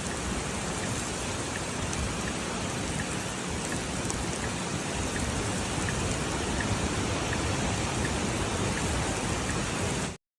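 Steady rain falling during a tornado-producing thunderstorm, a constant hiss that cuts off suddenly near the end.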